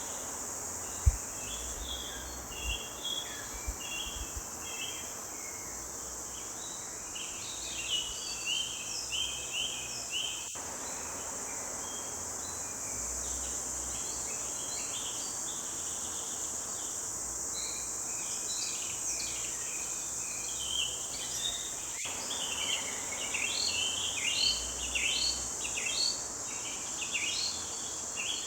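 Forest songbirds chirping and twittering in short, quick phrases, growing busier in the second half, over a steady high insect drone. A brief low thump about a second in.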